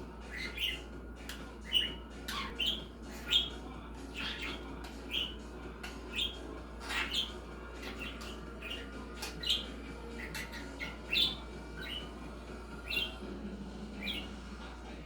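Pet budgerigar chattering: a steady run of short, quick chirps and squawky notes at an uneven pace.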